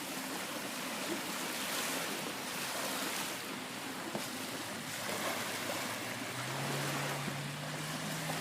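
Waves washing at the shoreline as a steady hiss of surf. A low steady hum comes in about six and a half seconds in.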